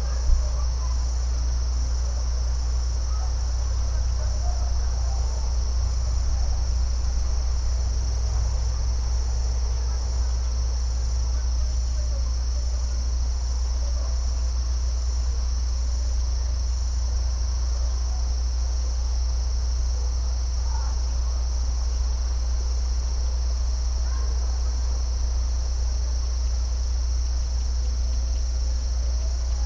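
Continuous chorus of crickets, a steady high-pitched trill that never breaks, over a constant deep low rumble and faint scattered calls in the middle range.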